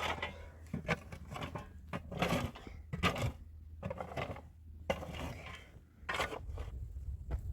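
Irregular clatter of hard objects being handled, a quick run of clinks and knocks, several a second, like dishes or utensils.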